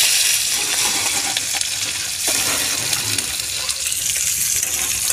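Chopped onion, garlic, ginger and green chillies sizzling in hot oil in a kadhai, just after being tipped in: a steady, loud frying hiss, strongest at the start.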